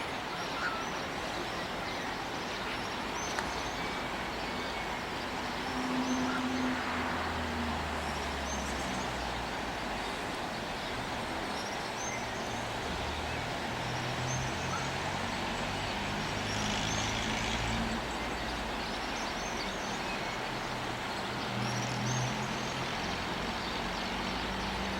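Passing road vehicles with engines humming, while birds chirp at intervals.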